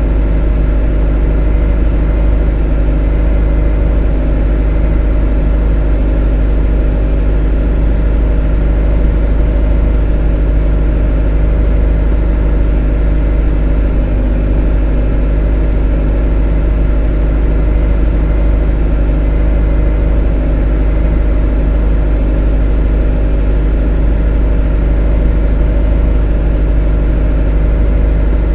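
A motor running steadily with a deep, unchanging hum and a set of steady tones above it, with no change in speed or level.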